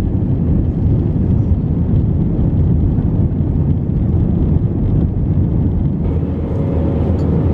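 Passenger airliner making a steady low rumble. A faint steady tone joins about six seconds in.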